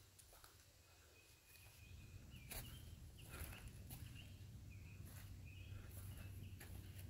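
Quiet woodland ambience: a bird giving short high calls, about one or two a second, starting about a second and a half in, with a few soft crackles in the middle and a low handling rumble underneath.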